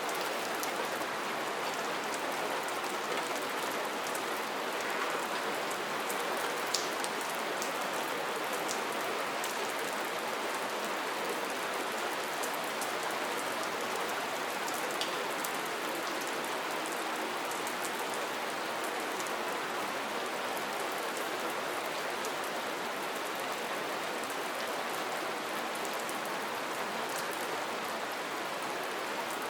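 Steady rain: a dense, even patter, with the odd sharper drop hit standing out now and then.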